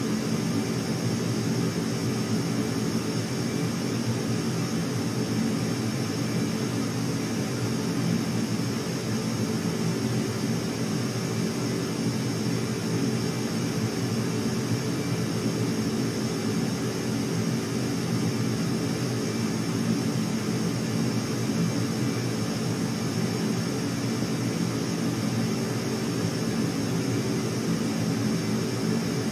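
Steady aircraft engine drone with a constant high whine over a low hum, unchanging in pitch and loudness.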